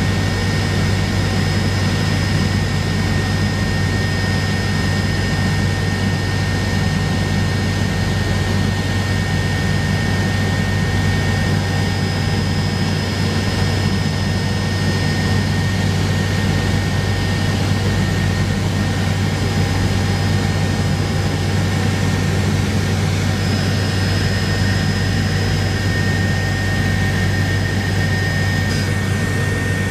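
Helicopter heard from inside the cabin in steady flight: a constant loud drone of rotor and engine, with a thin high turbine whine over it.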